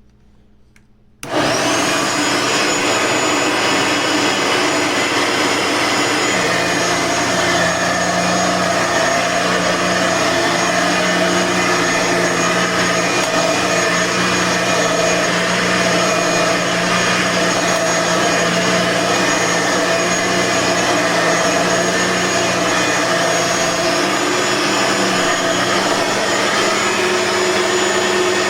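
Blue Bissell vacuum cleaner switched on about a second in, its motor coming up to speed with a high whine, then running steadily.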